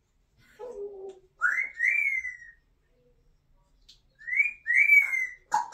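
Congo African grey parrot whistling a two-note phrase, a short rising note then a longer falling one, given twice, after a short low call.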